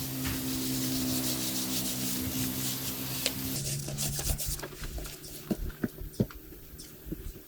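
Scraping, rasping noise over a steady low hum for about three and a half seconds, then the scraping stops and a run of light, scattered taps and clicks follows.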